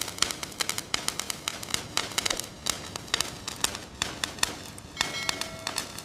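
Rapid, irregular clicks and taps, several a second, with a brief steady whistle-like tone about five seconds in.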